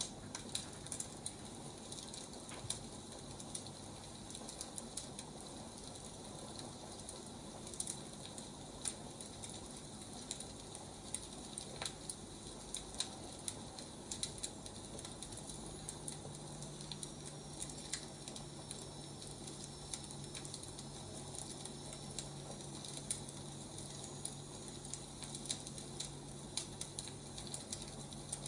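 Wood fire crackling: frequent irregular pops and snaps over a steady hiss.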